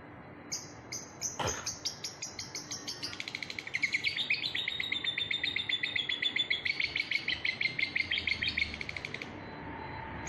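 Lovebird chirping: a series of sharp, high chirps that quickens into a rapid, continuous chattering trill from about three seconds in and stops shortly before the end. A single click about one and a half seconds in.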